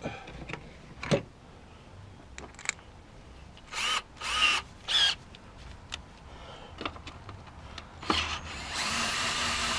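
Power drill driving out the exhaust manifold screws: a few clicks, then three short whirring spurts about four seconds in, and a steady run starting near the end.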